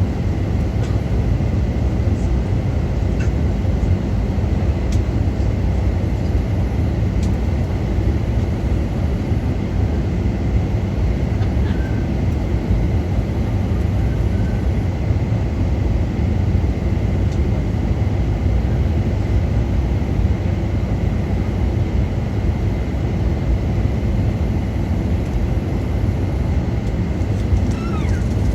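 Steady cabin noise inside a Boeing 737 airliner: a low, even rumble of engines and air, with a faint steady high tone running through it.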